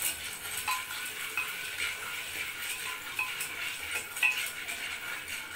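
Popcorn kernels being stirred in hot oil in an aluminium pressure cooker pot: a steady sizzle, with the spatula scraping and a few small clicks against the pot.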